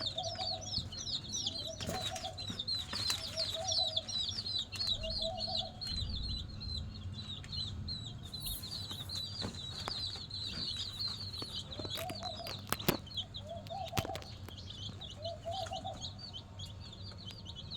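Chicks peeping without a break in quick, high chirps, while a hen clucks in short runs about every second and a half. A few sharp knocks sound near the end.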